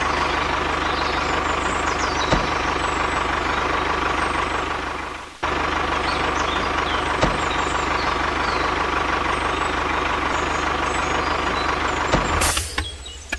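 A miniature DIY vehicle running steadily with a constant whine over a low hum. It breaks off for a moment about five seconds in, starts again, and stops near the end.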